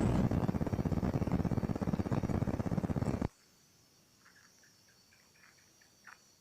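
A loud animal call, a rapid buzzing trill of closely packed pulses, that cuts off suddenly about three seconds in, followed by a few faint short chirps.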